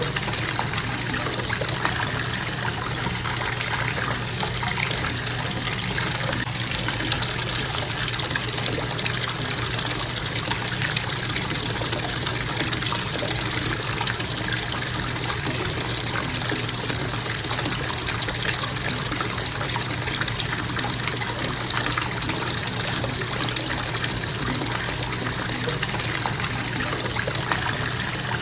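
Bathtub faucet running in a steady stream, water splashing into the tub.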